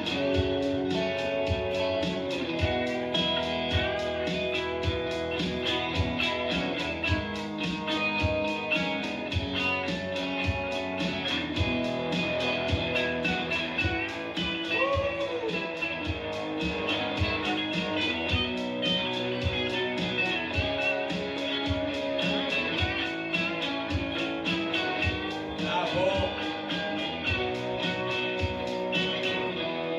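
Live indie rock band playing an instrumental break: a guitar lead with sliding, bent notes over a steady drum beat.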